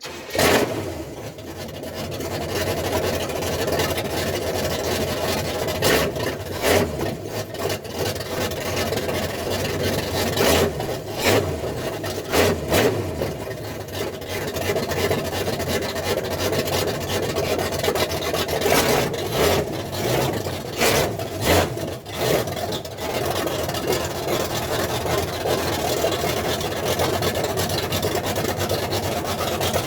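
Car engine running through homemade DIY mufflers, idling steadily with several short louder bursts that sound like blips of the throttle.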